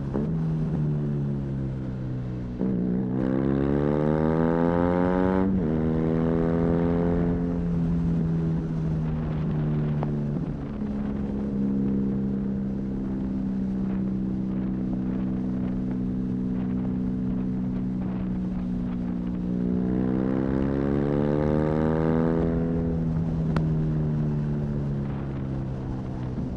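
BMW R nineT's air/oil-cooled boxer twin running through an Arrow high-mounted exhaust while riding. The engine note climbs under throttle and drops sharply at a gear change about five seconds in, then settles to a steady cruise. Near the end it rises again and falls back as the throttle is rolled off.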